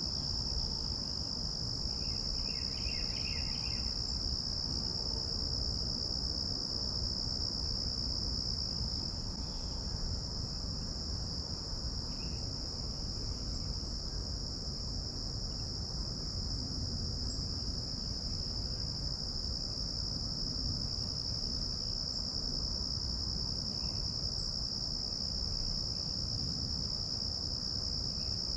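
A steady, unbroken high-pitched insect chorus of crickets over a low rumble of breeze. A brief burst of bird chirps comes about two seconds in.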